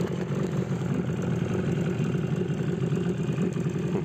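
An engine running steadily at low revs, an even low rumble.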